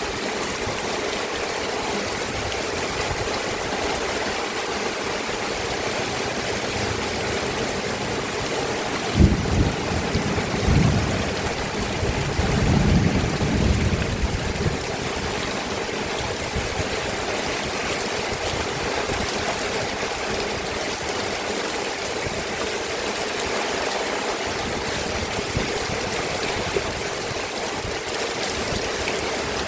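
Steady rain falling, an even hiss. About a third of the way in there is a sharp low thump, then a few seconds of low rumbling before the rain carries on alone.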